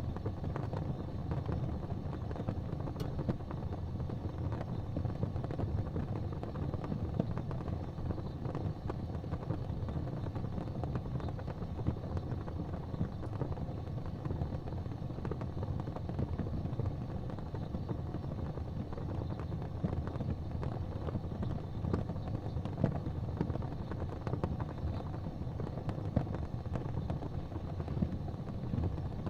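Wood fire crackling in a fireplace: a steady low rumble with many small irregular crackles and pops throughout.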